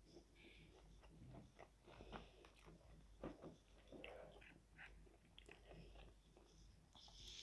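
Faint close-up chewing of crispy fried chicken and onion rings, with many small crunching crackles from the batter; the sharpest crunch comes about three seconds in.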